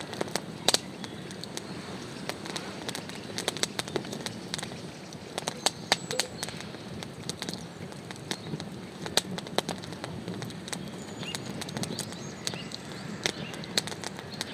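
Irregular sharp clicks and crackles, a few to several a second, over a steady low rumble.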